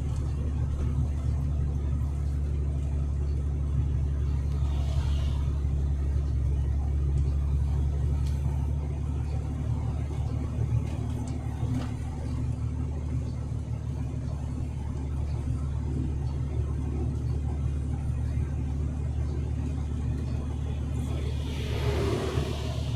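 Truck driving on the highway: a steady low rumble of engine and road noise, with a brief rushing swish near the end.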